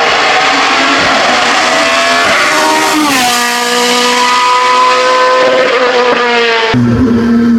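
Racing car engine at high revs: the note drops sharply about three seconds in, then holds and climbs slowly. Near the end the sound changes abruptly.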